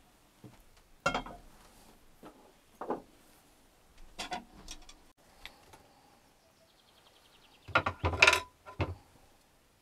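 Cookware and utensils being handled during cooking: scattered knocks and clinks, with a short run of louder clatters near the end.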